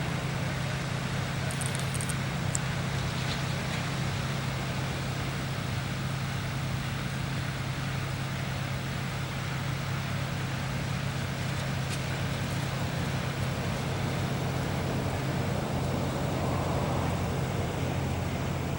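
A heavy engine running with a steady low drone, over the constant hiss of highway traffic.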